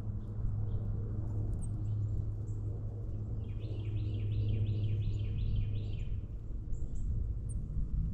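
A songbird singing a run of about nine quick repeated notes, roughly three a second, in the middle, with a few faint scattered chirps, over a steady low rumble.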